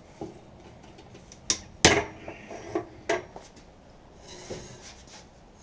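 A few sharp metallic clanks and knocks of metal tools and parts being handled under a car, the loudest about two seconds in.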